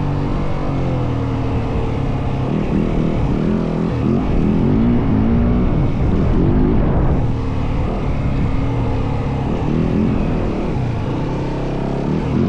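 Yamaha WR450F dirt bike's single-cylinder four-stroke engine under way, its pitch rising and falling over and over as the throttle is worked.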